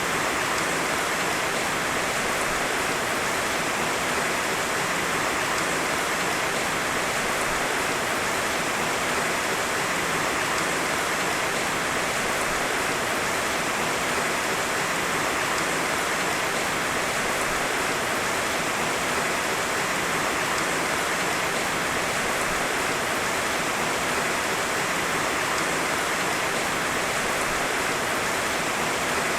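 Heavy rain falling steadily: a dense, even hiss with no thunder and no separate drops or knocks standing out.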